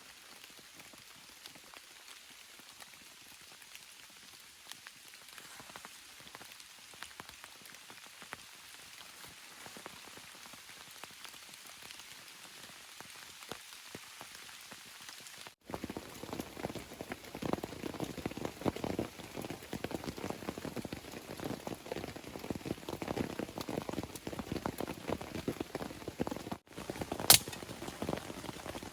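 Rain falling steadily, soft for about the first half. After a sudden cut it becomes louder, with dense close drops. A single sharp click near the end is the loudest sound.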